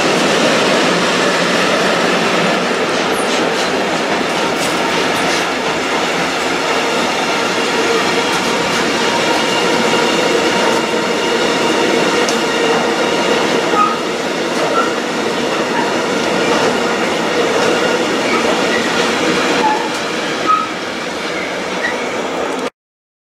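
A train passing close by: steady rolling noise of its wagons' wheels on the rails, with a few brief high wheel squeals in the second half. The sound cuts off suddenly near the end.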